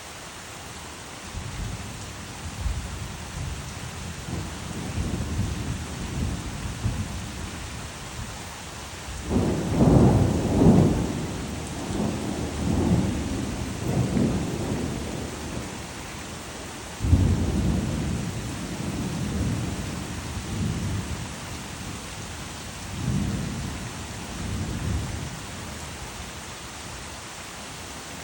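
Steady rain with rolling thunder over it: a rumble builds after a second or two and swells to its loudest about a third of the way in, a second peal starts suddenly past the middle and rolls on, and a fainter rumble follows before it dies back to the rain alone.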